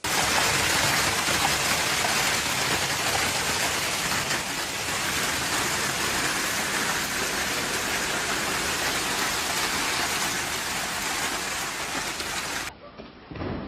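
Steady, even rushing hiss like heavy rain, starting suddenly and cutting off near the end to a quieter, muffled sound.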